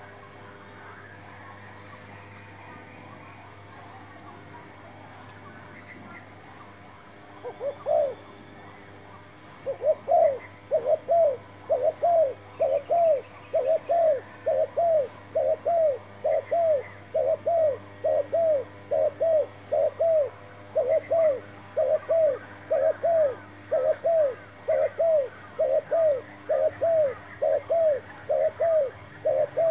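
Spotted dove cooing: a couple of notes about seven seconds in, then from about ten seconds a steady run of short, rising-and-falling coos at roughly two a second. A steady high hiss runs underneath.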